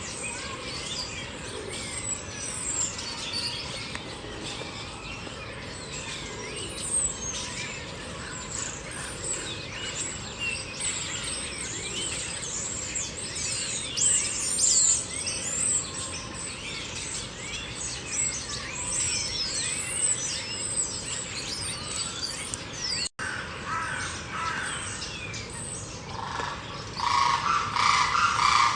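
Many birds chirping and twittering at once, a dense chorus of quick, high, mostly falling notes. The sound drops out for an instant about 23 seconds in, and near the end a louder, lower call comes in.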